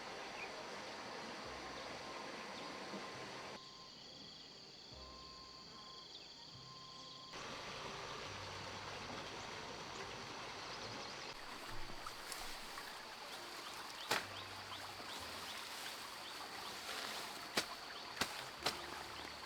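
Outdoor ambience: a steady hiss with a quieter stretch a few seconds in, then a handful of sharp clicks or knocks in the second half.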